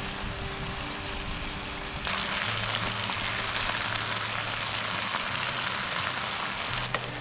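Food sizzling in a hot pan, the sizzle growing suddenly louder about two seconds in.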